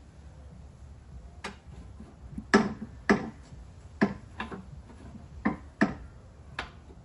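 A series of about eight sharp, irregularly spaced knocks and clicks, the loudest about two and a half seconds in.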